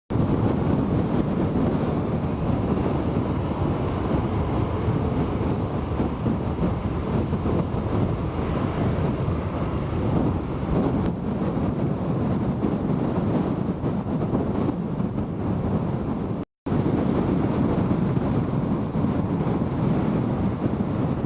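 Strong typhoon gusts buffeting the microphone: a loud, rough, steady roar of wind noise, deepest in the low range. It cuts out for a split second about sixteen seconds in.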